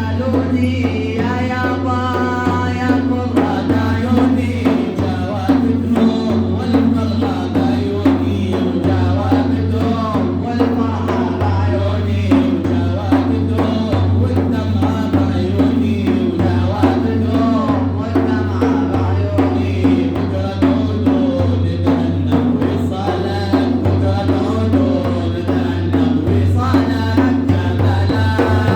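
A madih, an Islamic religious praise song: a man sings a winding melody over steady drumming, with a constant low drone beneath.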